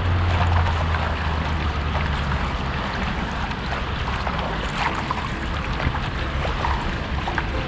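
A watercraft engine running on the water, its low hum easing after about two seconds, with water splashing and lapping.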